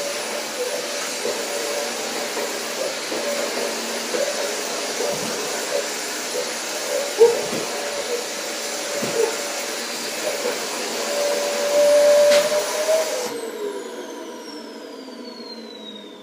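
Vacuum cleaner running, with a few knocks, then switched off about thirteen seconds in, its motor whine falling in pitch as it spins down.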